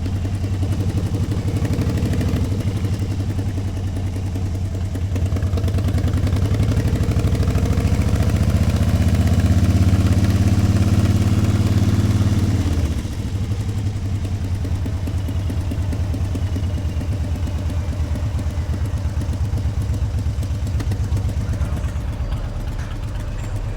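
Motorcycle engine running under way, growing louder for several seconds as it pulls, then dropping suddenly about 13 seconds in as the throttle comes off. It settles to a lower, steady note.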